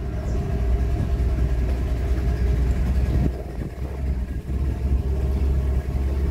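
Tour boat's motor running steadily with a deep, even hum, easing off slightly a little past halfway.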